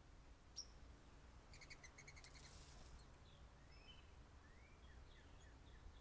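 Faint birdsong: a quick run of repeated chirps about two seconds in, then scattered short chirps, over a low steady rumble.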